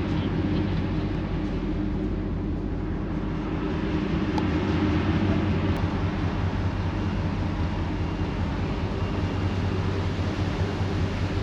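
Steady low drone of a passenger ferry's diesel engines, with an even hiss of wind and sea over it.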